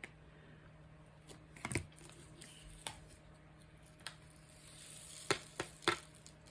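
Scattered small clicks and taps from handling a craft canvas and its plastic tools at a table, about eight in all with three close together near the end, and a soft plastic rustle just before them.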